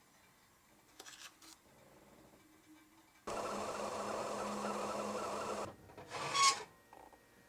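A small machine whirring steadily for about two and a half seconds with a low hum under it, starting and stopping abruptly, then a short louder rush of noise that swells and stops.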